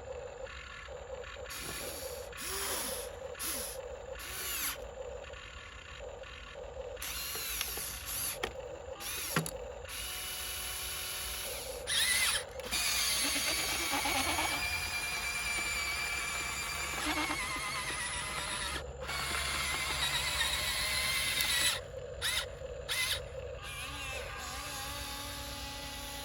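Electric drive motors and gearboxes of a radio-controlled dump truck whining and ratcheting. The whine rises and wavers in pitch, and is loudest from about halfway through, with several sudden stops and restarts.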